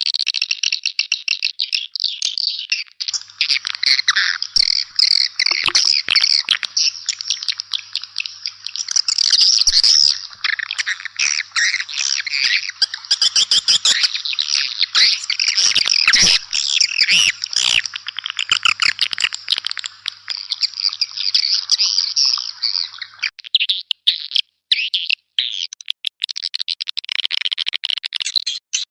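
Dense, rapid twittering chatter of many swiftlets, a swiftlet-house lure call recording. About three seconds in the chatter fills out with lower chirps, and after about twenty-three seconds it thins back to a higher twitter broken by brief gaps.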